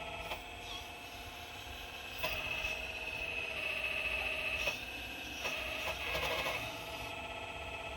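Excavator at work: a steady mechanical whine made of several held tones. It gets louder and shifts pitch about two seconds in, drops back about five seconds in, and short knocks and a brief scrape break through near the middle and about six seconds in.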